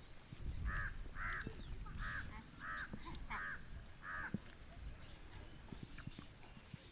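A crow cawing six times in a row, harsh calls about two-thirds of a second apart, with faint high chirps of a small bird behind it.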